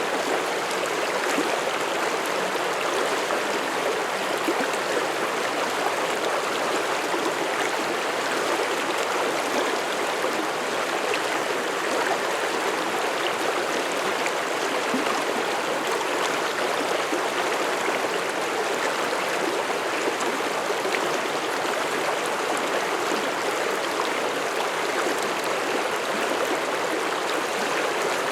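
Mountain stream flowing over rocks, a steady rushing and babbling of water with no let-up.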